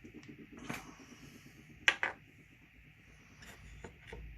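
A few sharp clicks and taps of small parts and tools being handled on a workbench, the loudest a quick double click about two seconds in.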